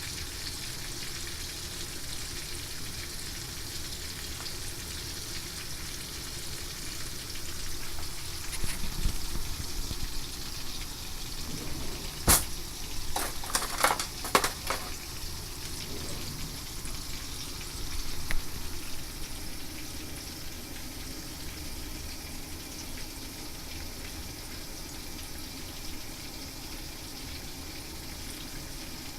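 Horse mackerel frying in oil with a steady sizzle. A few sharp clicks or knocks come about halfway through.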